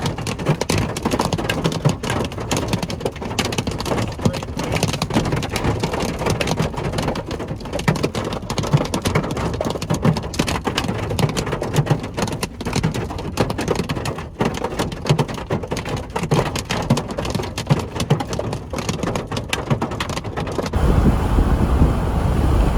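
Heavy rain and hail pelting a vehicle, a dense, constant clatter of impacts. Near the end a loud low rumble sets in beneath it.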